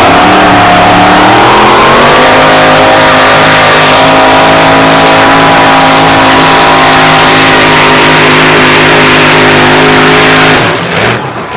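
Pulling truck's 640-cubic-inch dual-ignition Keith Black Hemi at full throttle on a pull: very loud, the revs climb over the first couple of seconds, then hold high and steady until the engine cuts off suddenly near the end.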